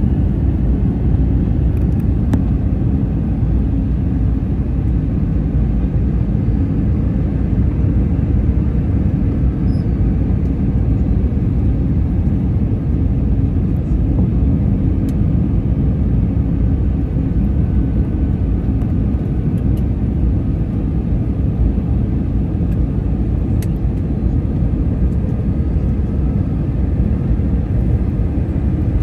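Steady low roar of a jet airliner in descent, the engine and airflow noise as heard inside the cabin, with a faint steady hum above it.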